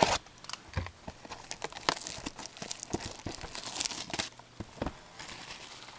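Trading-card box packaging being handled and torn open: a knock at the start, scattered clicks, and a stretch of crinkling and tearing from about two seconds in to past four seconds.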